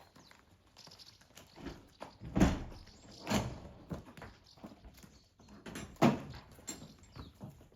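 Horses moving about, heard as a few heavy thuds and knocks. The loudest come about two and a half seconds in and again about six seconds in.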